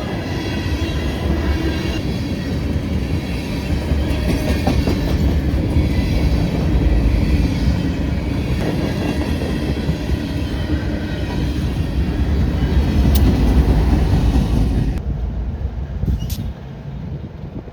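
Freight train cars rolling past: a steady loud rumble of steel wheels on rail with a faint high wheel squeal. About fifteen seconds in the sound drops abruptly to a quieter rumble.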